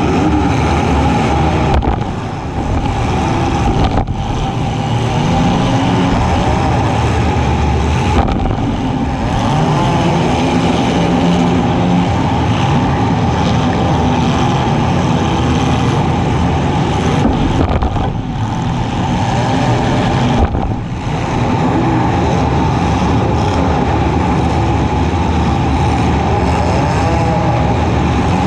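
Compact demolition derby car's engine running hard at high revs, rising and falling with the throttle, with a few sharp crashes where cars collide, about 4 s, 8 s and 20 s in.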